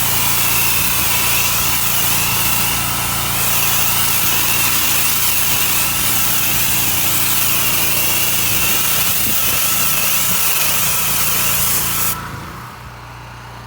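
Pressure washer spraying: a loud, steady hiss of high-pressure water over the washer's engine running underneath. About twelve seconds in, the spray cuts off suddenly and the engine keeps running, quieter.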